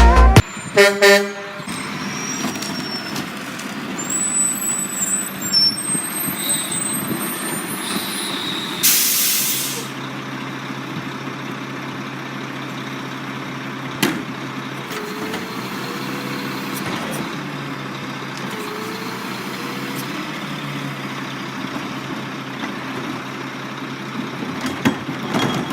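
Rear-loader garbage truck running steadily, its diesel engine humming, with a short hiss of released air about nine seconds in.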